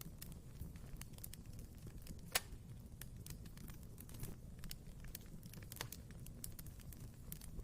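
Wood fire in a fireplace crackling: a scatter of small pops and snaps over a low, steady rumble of the flames, with one sharper, louder pop a little over two seconds in.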